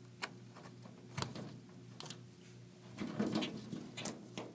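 A grackle trapped between a window and its screen, flapping and scrabbling against the mesh and glass. A few separate sharp taps come first, then a longer flurry of wing-beating and scraping about three seconds in.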